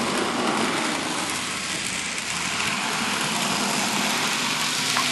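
N scale model locomotive running along the track: a steady whirring rumble of the small motor and wheels on the rails.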